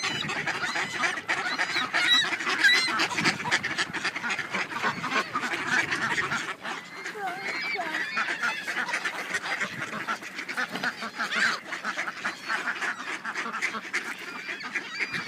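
A flock of geese and ducks calling over each other without a break, a dense clamor of honks and quacks while they are being fed bread.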